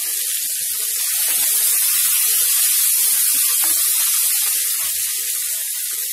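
Chopped onions, tomatoes and ginger-garlic paste sizzling steadily in hot oil in a stainless steel kadai while being stirred with a wooden spatula.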